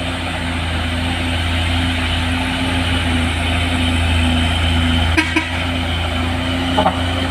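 Heavy truck's diesel engine running steadily under load on a steep climb, growing slightly louder, with a couple of brief sharp sounds about five seconds in and near the end.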